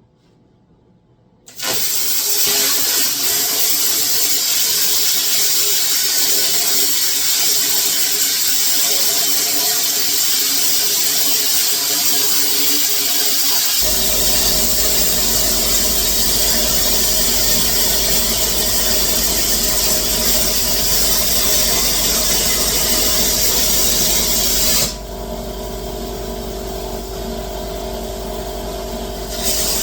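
Plasma cutter cutting the steel frame extension pieces: a loud, steady hiss that starts about a second and a half in. A low steady hum joins about halfway. Near the end the hiss drops away for a few seconds, then comes back.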